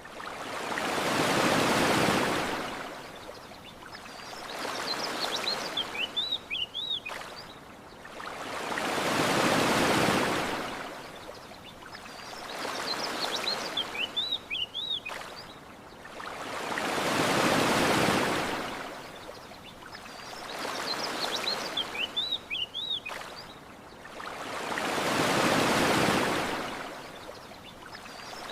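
Ocean waves washing onto a beach, swelling and receding in a steady rhythm: a big surge about every eight seconds with a smaller one between. Short, high bird chirps come in clusters between the big surges.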